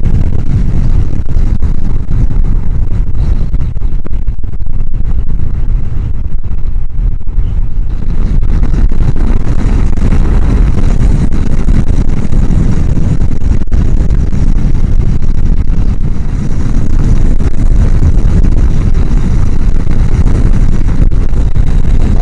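Steady wind rush buffeting a helmet-mounted microphone while riding a Honda CBR1000F at speed, with engine and road noise underneath. The noise is heaviest in the low end because the microphone sits behind the helmet chin bar's air vent.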